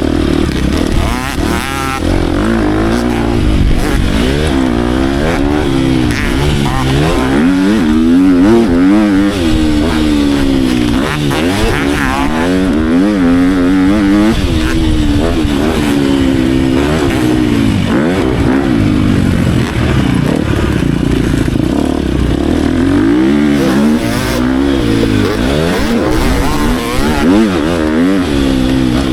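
Motocross dirt bike engine being ridden hard, its pitch rising and falling over and over as it revs up, shifts and backs off around the track.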